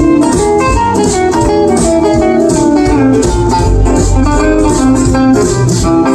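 Live band playing an instrumental break in a swinging jump-blues tune: a guitar picks a lead line over a steady beat.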